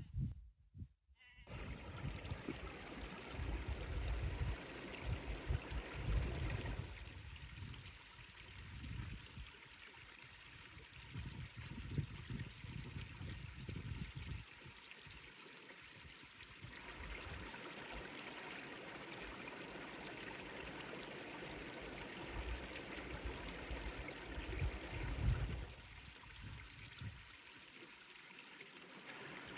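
Countryside ambience over several spliced shots: a sheep bleats briefly about a second in, over a steady hiss of running water, with stretches of low rumbling.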